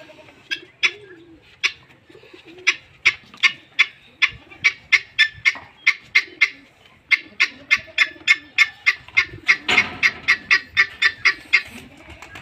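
A small bird chirping over and over, three or four sharp chirps a second, with a short break near the middle. Doves coo softly underneath.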